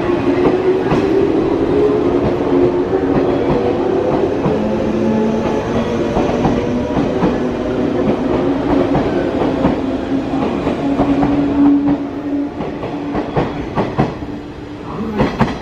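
Electric commuter train moving through the station, its wheels clicking over rail joints under a steady whine. It grows quieter near the end.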